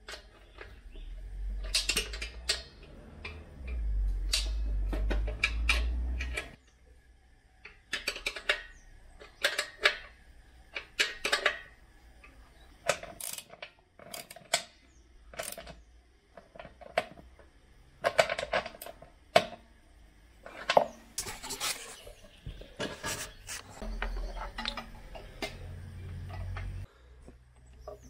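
Metal spanners clinking and knocking on nuts, bolts and the steel compressor parts during bolt-on assembly: a long series of irregular sharp metallic clinks. Low rumbling handling noise comes in the first few seconds and again near the end.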